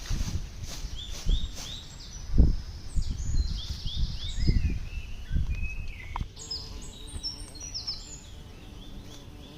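Small birds chirping over and over in short, quick falling notes. Low rustling thuds come and go under them, loudest about two and a half seconds in, and stop about six seconds in.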